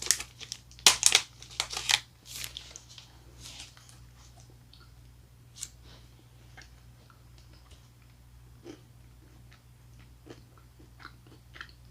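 A few loud, sharp crunches in the first two seconds as a honeycomb-filled chocolate bar is bitten, then quiet chewing with faint scattered clicks.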